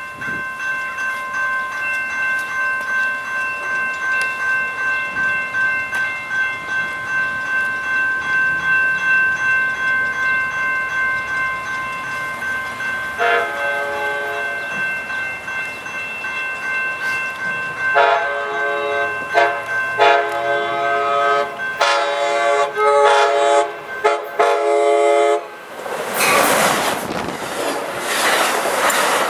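Grade-crossing bells ring steadily as an Amtrak Pacific Surfliner train approaches. Its horn gives one short blast about 13 seconds in, then a run of long and short blasts. Near the end the train passes close by, with the loud rush and clatter of the bi-level cars' wheels on the rails.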